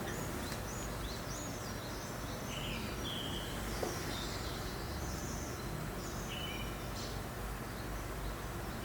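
A steady breeze with small birds chirping, short high calls scattered throughout.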